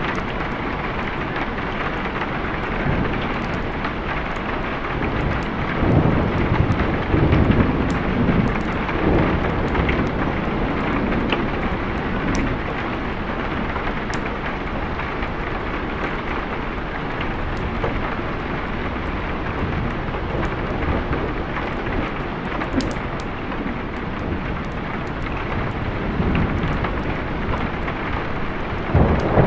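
Steady heavy rain, with thunder rumbling for a few seconds about six seconds in and again near the end.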